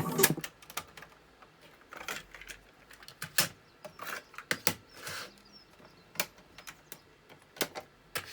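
Irregular sharp clicks and knocks, about a dozen over several seconds, just after the radio's music cuts off: the boombox's switches and buttons being operated.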